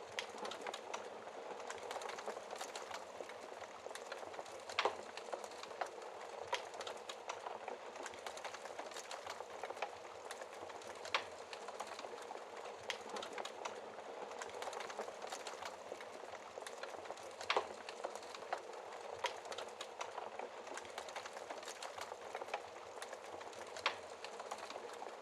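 Wood fire burning in a fireplace, with a steady hiss and dense crackling, punctuated every few seconds by a sharper, louder pop.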